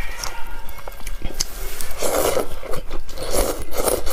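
Close-miked eating: chewing and small wet mouth clicks, with three louder noisy bursts in the second half.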